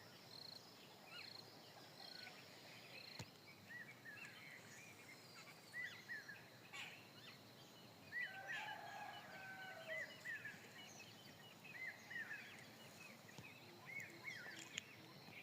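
Birds chirping faintly over a low outdoor background hush, many short arched notes repeating from several calls, busiest in the second half. A single brief tick about three seconds in.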